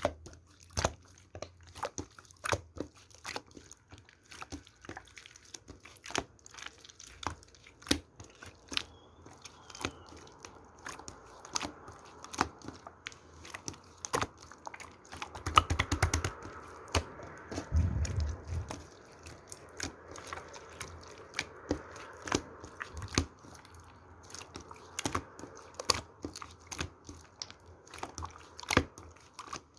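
Yellow slime being squished and worked by hand: a steady stream of sticky clicks and small pops, with a louder patch of squashing and handling thumps around the middle.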